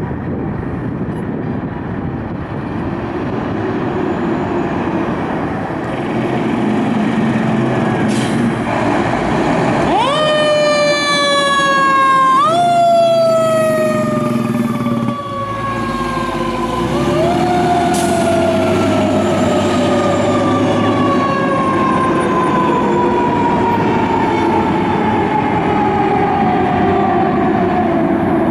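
Fire engine siren over engine and traffic noise: about ten seconds in it winds up sharply, twice more in quick succession, then falls slowly in pitch for about ten seconds as it winds down.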